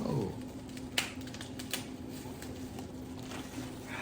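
Scattered small clicks and cracks of crab legs and shells being handled and eaten, the sharpest about a second in, over a faint steady hum.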